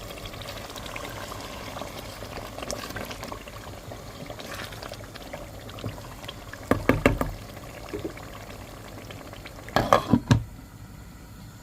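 Pepper-and-palm-oil stew bubbling and sizzling in a pot with meat stock just poured in. Twice in the second half comes a short cluster of knocks, louder than the bubbling.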